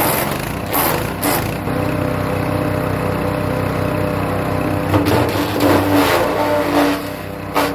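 Hecht 6208 wood chipper's engine running steadily while birch branches are fed through. Bursts of chipping noise come near the start, about a second in, and again from about five to seven seconds.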